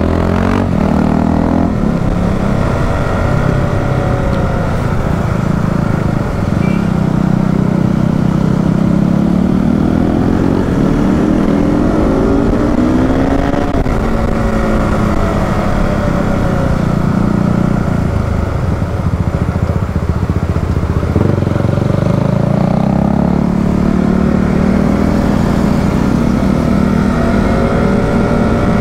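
KTM RC 200 motorcycle's single-cylinder engine running under way, its pitch climbing and falling several times as the throttle is opened and eased.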